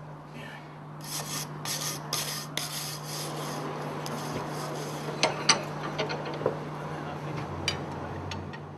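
Steel being scraped in repeated rasping strokes at the forge, several strokes in quick succession early on, then a few sharp metallic clicks, over a steady low hum.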